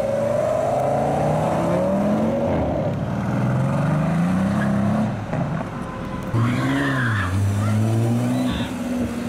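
Performance car engines accelerating hard one after another as they pull away, the pitch climbing through the gears with a gear change about two and a half seconds in. A second car's engine comes in suddenly and louder about six seconds in, with a short rise and fall in revs before it settles.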